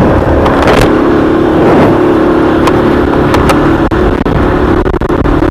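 Heavy wind buffeting on an SJCAM external microphone worn while riding a motorcycle: a loud, constant rumble that drowns everything else, with a steady hum underneath. This is the mic's known over-sensitivity to wind noise, heard without any fix.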